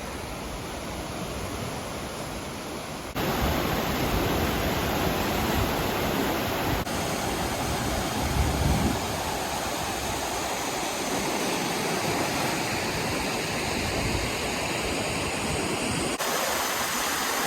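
Waterfall's falling water, a steady rushing noise. It gets louder about three seconds in and shifts abruptly twice more, as at cuts between takes.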